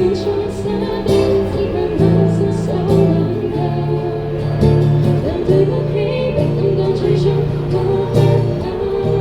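A band playing live: singing over guitar with a sustained bass line.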